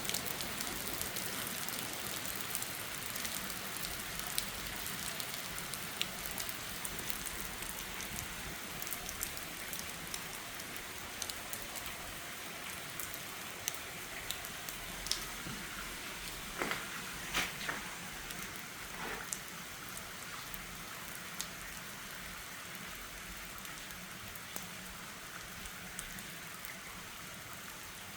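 Heavy rain falling steadily, a dense patter of drops with a few sharper taps about two-thirds of the way in, slowly growing quieter.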